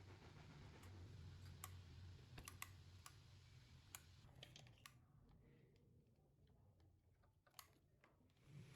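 Faint, scattered light clicks and taps over a low, steady hum.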